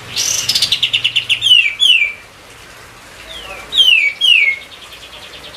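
Kapas tembak bulbul singing in an agitated, vigorous burst: a fast chattering trill followed by two sharp down-slurred whistles, then after a short pause another group of three down-slurred whistles.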